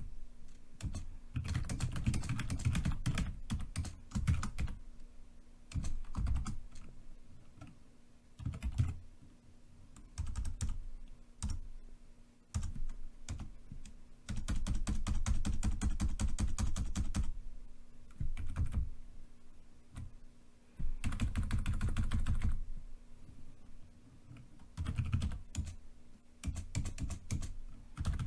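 Typing on a computer keyboard: quick runs of keystrokes, broken by short pauses.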